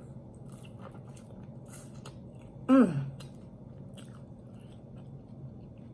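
Close-miked chewing and wet mouth sounds of someone eating sauce-covered roast chicken, faint clicks and smacks throughout. About three seconds in comes one short hum of the voice that falls in pitch.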